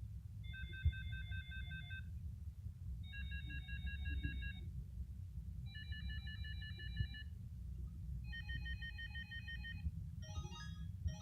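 Samsung Anycall SCH-S510D mobile phone ringtone playing: a short phrase of quickly repeated high notes sounds four times with short pauses between, and a different melody begins near the end, over a steady low hum.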